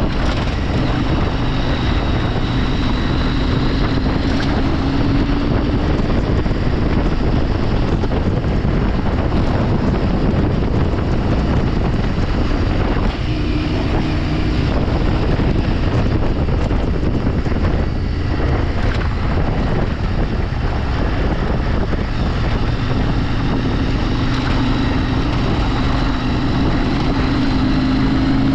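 Vehicle engine running on the move, with heavy wind noise on the microphone. The engine's pitch sinks slightly over the first few seconds and climbs again near the end.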